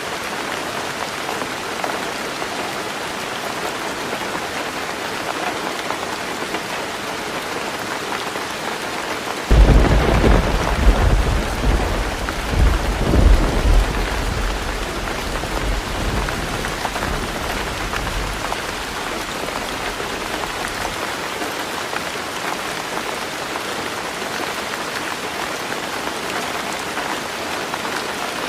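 Heavy rain drumming steadily on a tin roof. About a third of the way in a thunderclap breaks suddenly, rumbling in several rolls for several seconds before fading back under the rain.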